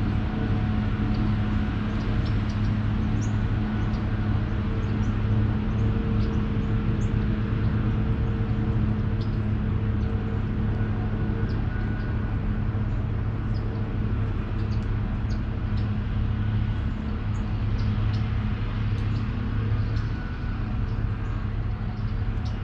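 A steady, low motor hum runs throughout, with short, high bird chirps scattered over it.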